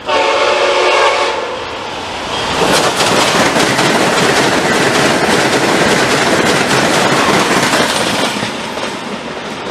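Amtrak Acela Express high-speed trainset sounding a horn blast of about two seconds as it approaches. It then passes at speed with a loud rush of air and wheel noise and a rapid clicking of wheels over the rail joints, easing off slightly near the end.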